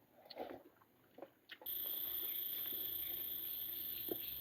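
A few faint clicks, then about a second and a half in a steady, shrill insect chorus cuts in abruptly, with one continuous high band and a lower buzzing band. A single soft knock near the end.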